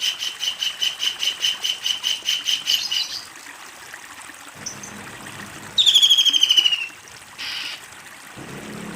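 Kingfisher's loud rattling call: a fast run of repeated notes, about eight a second, that stops about three seconds in. A second, shorter burst of rapid notes falling in pitch follows near the six-second mark.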